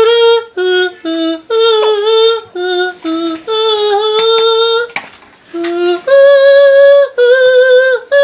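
A tune sung or hummed loudly as a run of about a dozen separate held notes, each a fraction of a second to a second long, stepping up and down in pitch, with a short break about five seconds in.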